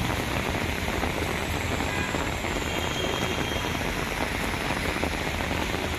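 Heavy monsoon rain falling on a flooded road, a steady hiss with no let-up.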